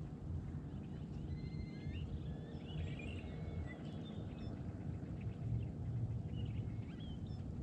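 Birds chirping and whistling faintly, many short calls, over a low steady rumble.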